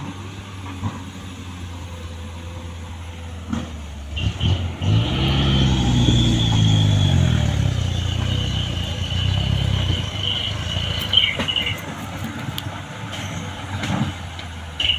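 Heavy diesel engine running steadily, then revving hard under load for about five seconds in the middle, with a high whine above it, before easing back. A few sharp knocks come around the start of the rev and near the end.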